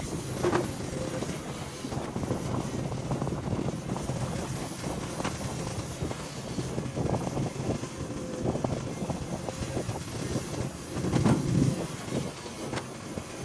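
Heavy diesel machinery running steadily, with irregular metallic clanks and knocks throughout and a louder stretch about eleven seconds in.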